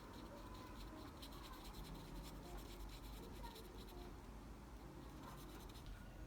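Faint scratching of many quick drawing strokes on paper, in short repeated bursts.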